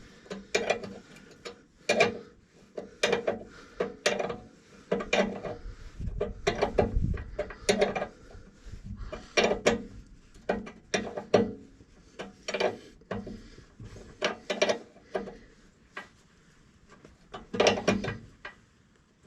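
Hand ratchet wrench clicking in short strokes while a nut is tightened down, the clicks coming in irregular bunches with brief pauses between strokes. It goes quiet for a moment near the end.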